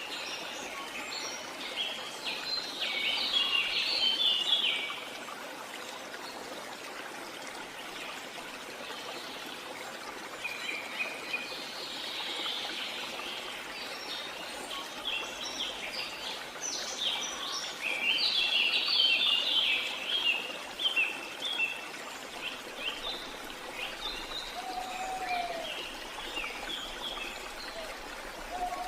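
Steady rush of a jungle waterfall, with birds chirping over it in bursts that come and go, and a single short, lower call near the end.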